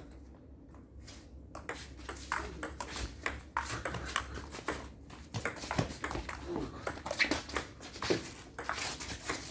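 Table tennis being played: the celluloid-type plastic ball clicking off the paddles and the table in an irregular run of sharp knocks, a few per second, starting after a short pause about two seconds in.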